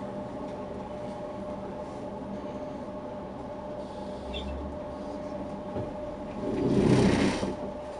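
Steady hum and running noise of a train heard from inside a carriage as it slows to a stop, with one loud rushing swell about a second long near the end.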